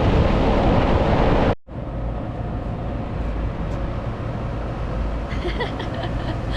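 Loud, steady rushing rumble, then, after an abrupt cut about a second and a half in, a quieter steady low hum.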